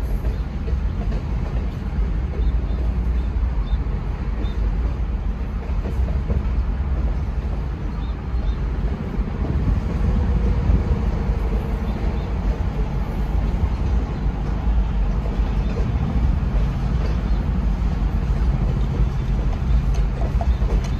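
Freight train of boxcars and covered hopper cars rolling past: a steady, loud low rumble of steel wheels on rail.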